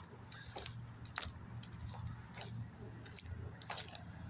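A steady, high-pitched drone of a late-summer insect chorus, with a low steady hum underneath and scattered light clicks.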